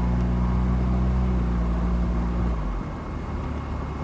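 A vehicle engine running with a steady low hum that drops away about two and a half seconds in, leaving quieter road and wind noise.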